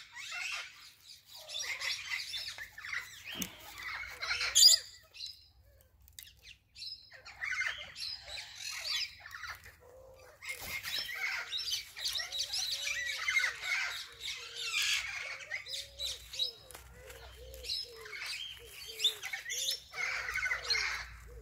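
Birds chirping and twittering, a busy mix of short high calls. In the second half a run of soft low notes repeats about twice a second.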